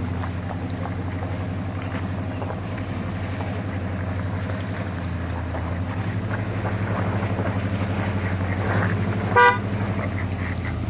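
Car engine running steadily on the road, with one short, loud car-horn toot about nine seconds in.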